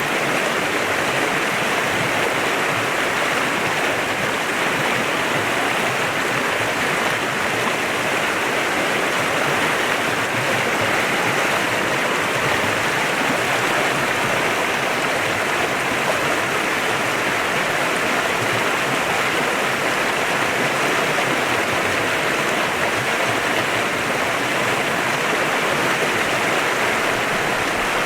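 Clear river flowing: a steady, even rush of running water with nothing standing out above it.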